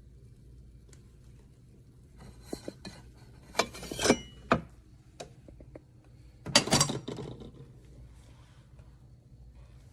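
Hard objects clinking and clattering: a few light knocks, then two louder rattling clatters with a short metallic ring.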